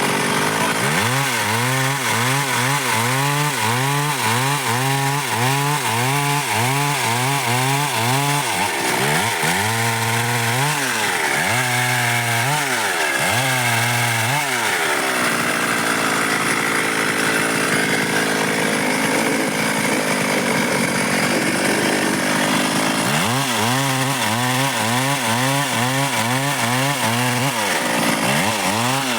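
Stihl MS 382 two-stroke chainsaw running continuously, cutting through dry wood.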